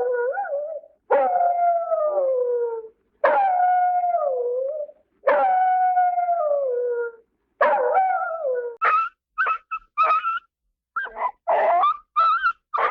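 Cartoon dog howls from the Hanna-Barbera sound effects library: four long howls, each falling in pitch and cut off cleanly, followed near the end by a quick run of short yelps.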